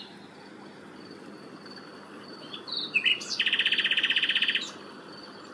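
A songbird singing: a few short chirps, then a loud, fast, even trill lasting about a second, over a faint steady high tone and a low background hiss.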